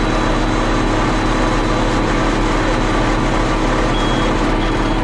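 Tractor diesel engine running steadily while pulling a working round baler. From about four seconds in, a high-pitched alarm beeps in short, evenly spaced beeps, a bit over one a second.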